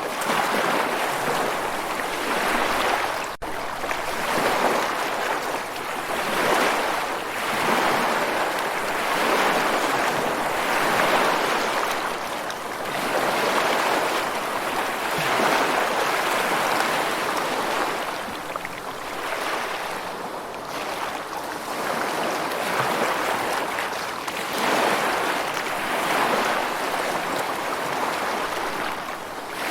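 Rushing water, a steady wash that swells and eases every couple of seconds, with a brief dropout a few seconds in.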